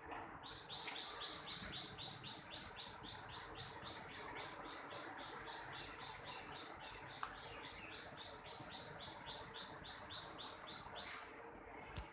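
A pet parrot chirping in a fast, even series of short high calls, about three or four a second, stopping about a second before the end.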